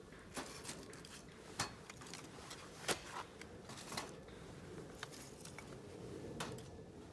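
Scattered light clicks and knocks of small hard objects being handled, a few sharper ones standing out, over a faint steady background.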